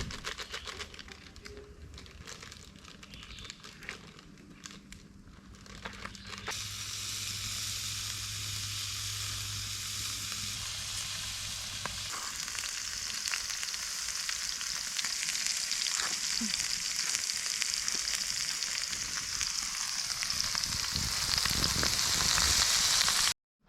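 Beef steak frying over a campfire, sizzling. It is softer at first, turns into a loud steady sizzle about six seconds in, and cuts off suddenly near the end.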